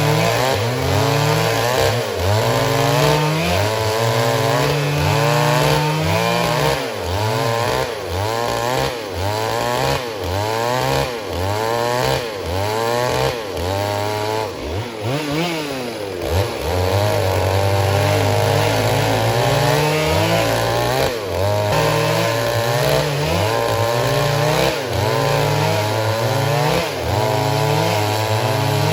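Stihl MS 382 two-stroke chainsaw running hard, its engine speed rising and falling over and over, with a steadier stretch in the middle.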